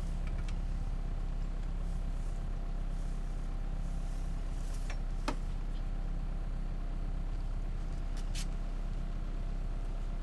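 Rally car's engine idling steadily while parked, heard from inside the cabin, with a couple of light clicks about five and eight seconds in.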